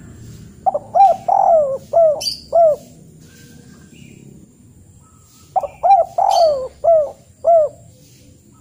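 A bird calling in two phrases of about five short notes each, the second phrase coming about five seconds after the first.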